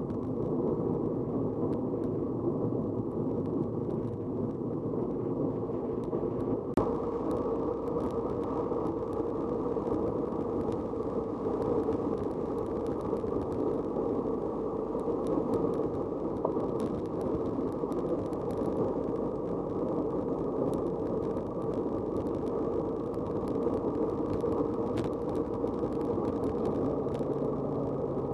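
Steady, muffled rush of wind and tyre noise from riding a bicycle, with a single sharp click about seven seconds in.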